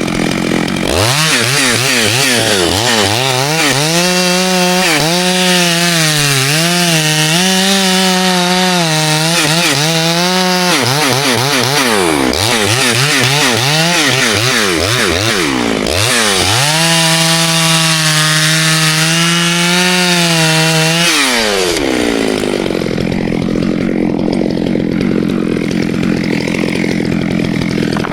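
Chainsaw revved to full throttle in two long spells, its pitch wavering as the chain works through ash wood. Between the spells it drops back and revs up again, and near the end it falls back to idle.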